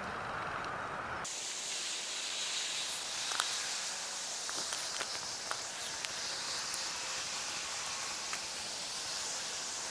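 Steady high hiss of falling rain, with scattered faint ticks of drops. It cuts in abruptly about a second in, replacing a lower, rougher noise.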